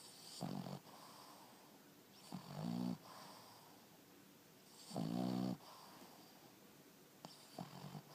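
Boston terrier snoring in a slow, regular rhythm: four rasping snores, one about every two and a half seconds, the last one short.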